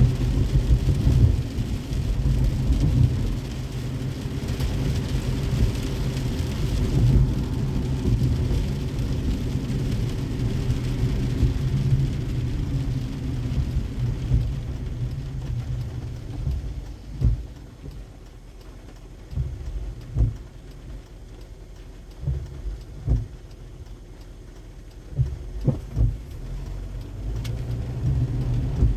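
Car driving in rain: steady low road and tyre rumble under a haze of rain. About halfway through it drops quieter, with several short low thumps, and the rumble builds again near the end.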